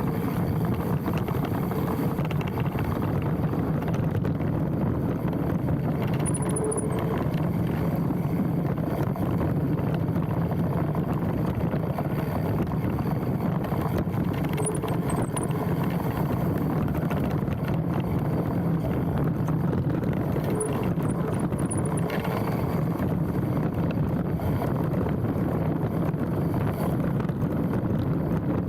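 Mountain bike rolling down a dirt trail: steady tyre and frame rattle with wind on a handlebar-mounted camera. A short, high brake squeal (a "tsyuu") comes three times, at about 6 s, 15 s and 21 s in, where the rider brakes.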